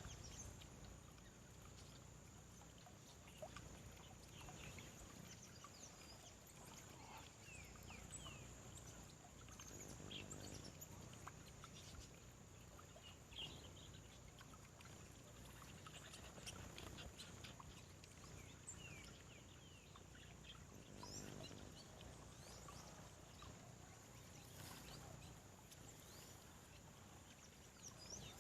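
Faint birdsong: scattered short chirps and quick twitters, over a steady high-pitched hum and a low background rumble.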